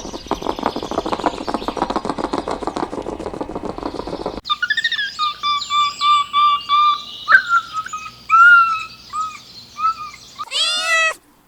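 A rapid, rasping animal sound that cuts off about four seconds in, followed by a bird giving a string of short, pitched calls. A cat starts meowing near the end.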